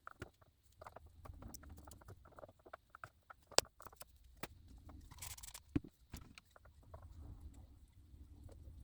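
Close handling noise from setting a doll's hair: scattered small clicks and taps of plastic straw rollers and bobby pins, with one sharper click about three and a half seconds in and a brief hiss about five seconds in.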